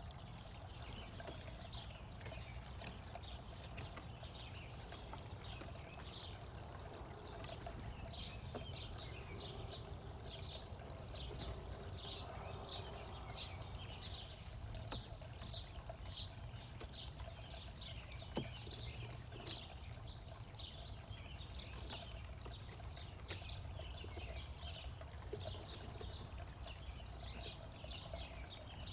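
Small birds chirping: many short, high calls in quick succession, over a steady low rumble of background noise.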